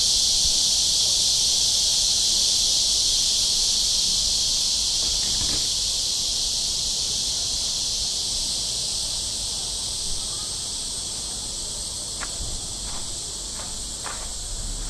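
Summer cicadas singing in a dense, steady, high-pitched chorus that slowly grows fainter.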